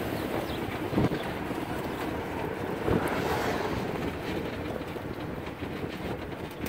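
1935 Ford cabriolet's flathead V8 running smoothly while driving, under road and wind noise in the open car. Two thumps come about a second in and about three seconds in.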